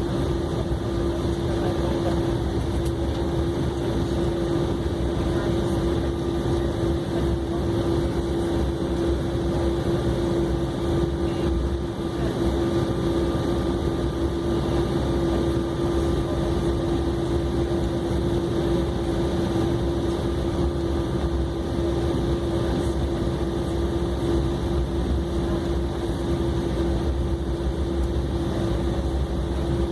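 Steady cabin hum of an Embraer E190 airliner taxiing, its engines at low power: an even drone with a strong steady tone over a low rumble.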